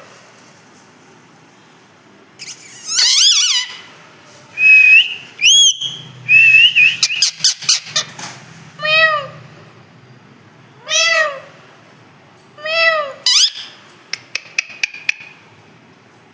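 Pet parrot making cat-like meows: about four drawn-out calls that rise and fall in pitch. A short whistled note comes about five seconds in, and there are bursts of sharp clicks between the calls.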